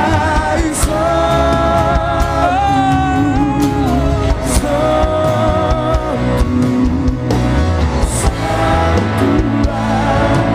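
Live worship music: a band playing a slow piece, with a long-held, wavering melody line over steady bass and drum strokes.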